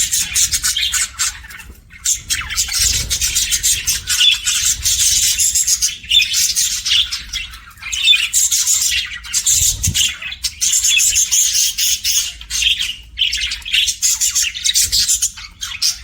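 Budgerigar chattering: a continuous run of rapid, high chirps and scratchy warbles with only brief pauses, the warbling of a contented budgie.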